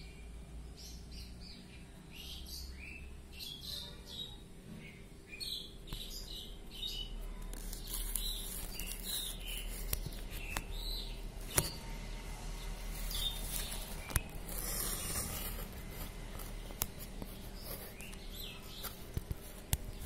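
Birds chirping and calling in quick short bursts close outside a window, with a couple of sharp taps on the glass, one around the middle and one near the end.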